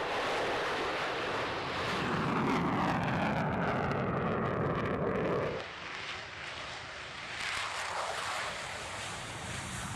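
The twin Pratt & Whitney F119 turbofans of an F-22 Raptor roar as the jet passes by, the pitch falling as it goes past. About five and a half seconds in the sound drops off suddenly to a quieter rushing noise.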